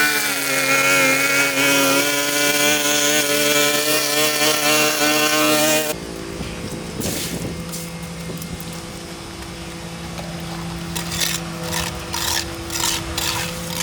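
A power tool's motor running at high speed with a wavering whine, cutting off abruptly about six seconds in. After it, a quieter steady hum with scattered clicks and crackles near the end.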